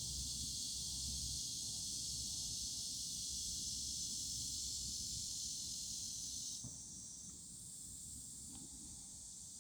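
Steady high-pitched hiss over a low rumble, typical of outdoor ambience. About two-thirds of the way in it drops abruptly and becomes quieter. No toad calls stand out.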